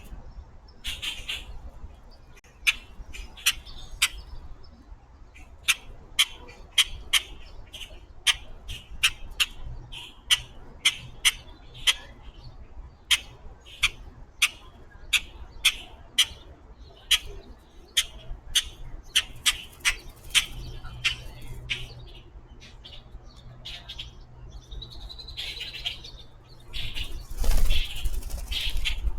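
Birds giving short, sharp chirps one after another, one or two a second, with a louder flurry of noise near the end.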